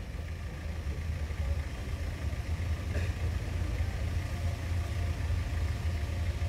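Modified off-road 4x4's engine running at low revs as it crawls over the obstacle: a steady low rumble that grows slightly louder.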